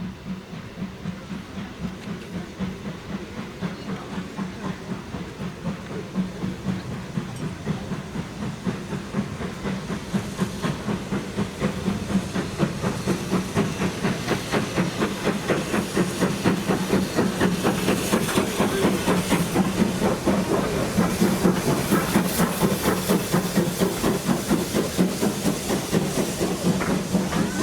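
Steam locomotive working under power and drawing closer: a steady rhythm of exhaust beats that grows louder through the whole stretch, with steam hiss building in the second half.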